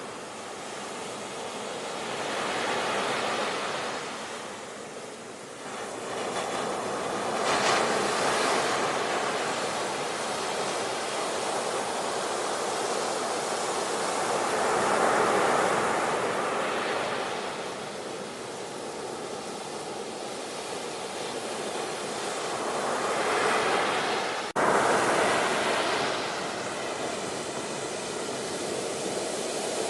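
Ocean surf: waves surging in and washing back in slow swells every several seconds, with an abrupt break in the sound about 25 seconds in.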